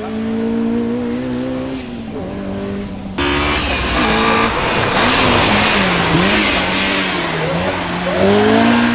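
Honda S2000's four-cylinder engine revving hard as the car is thrown through tight turns, its pitch climbing steadily at first, then rising and falling from turn to turn. About three seconds in the sound jumps louder and a hiss of tyre squeal joins the engine; a climbing rev near the end is the loudest part.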